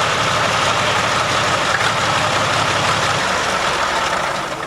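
A vintage car's engine idling steadily; the sound falls away near the end.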